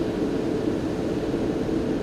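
Turbine noise from a Shaanxi Y-8F-200W turboprop transport aircraft during its engine start-up: a steady rush with a steady hum, unchanging throughout.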